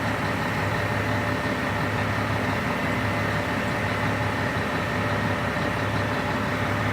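Scania 113 truck's 11-litre straight-six diesel running steadily at low revs, with a deep even drone.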